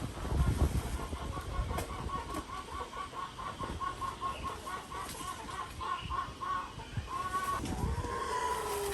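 Chickens clucking: a quick run of short clucks, about five a second, followed by a couple of longer drawn-out calls near the end. Low thumps are heard in the first second.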